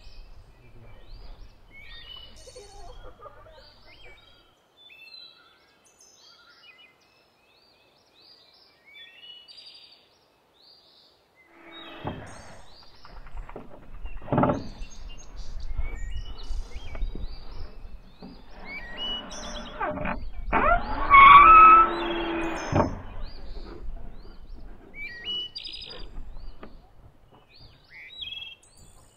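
Songbirds chirping and singing in a rural garden, short high calls repeated all through. In the second half come louder knocks and rattling, and a sustained pitched sound lasting a few seconds is the loudest thing.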